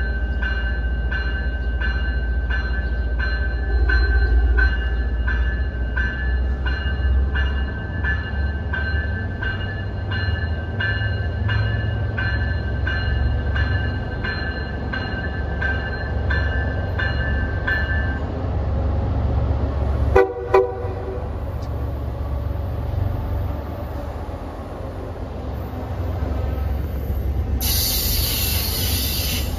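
MBTA commuter rail train rumbling in with its bell ringing evenly, about one and a half strokes a second, until the bell stops a little over halfway through. Soon after, a single short toot of the train horn. Near the end a loud hiss joins the running train.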